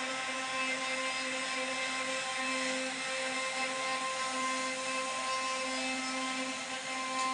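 CNC router spindle running with a steady whine over a hiss while its bit carves wood.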